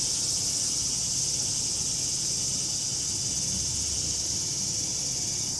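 A steady chorus of insects chirping, high-pitched and unbroken, with a fine rapid pulsing.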